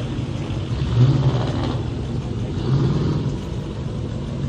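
Car engine running with a steady low rumble, rising in two brief revs, about a second in and again near three seconds in.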